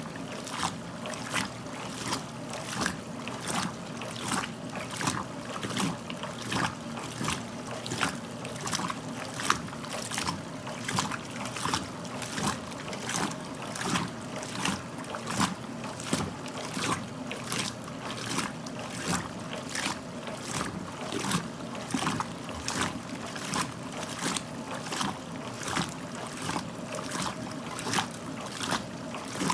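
1969 Westinghouse LAJ 535A3 washing machine washing a load of clothes, about one and a half swishes of water and wet clothes a second over a steady motor hum.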